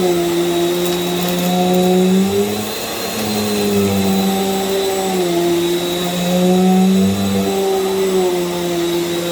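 Small Bissell vacuum cleaner running steadily over a rug, with a thin high whine over its motor hum. The motor's pitch dips and rises every second or two as the vacuum is pushed back and forth.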